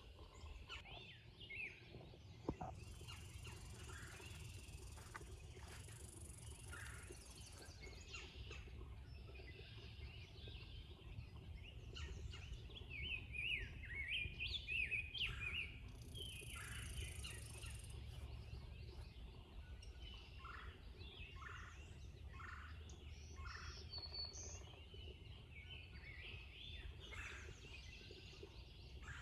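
Wild birds calling and singing in short scattered phrases, with a quicker run of rattling calls about halfway through, over a faint low steady rumble.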